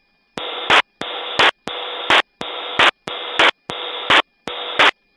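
A repeating pulsed electronic alert in the helicopter's cockpit audio: seven evenly spaced buzzy pulses, about 0.7 s apart, each ending in a short, sharper crackle.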